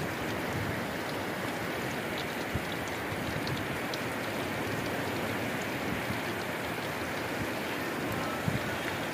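Heavy rain pouring down steadily as a dense, even hiss, with a few faint ticks scattered through it.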